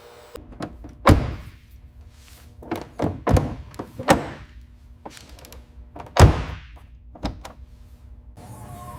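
A series of sharp thunks and knocks, about seven spaced irregularly, the loudest about a second in and about six seconds in, each dying away quickly.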